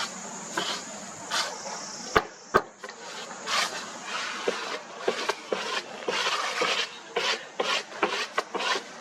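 Hand trowel scraping and smoothing wet cement plaster or mortar on brick, in repeated rasping strokes that come closer together after a few seconds. Two sharp knocks sound a little after two seconds in.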